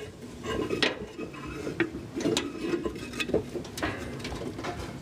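Scattered light clicks and clanks of hands working the deck belt off a pulley on a Craftsman 42-inch mower deck, metal parts knocking now and then.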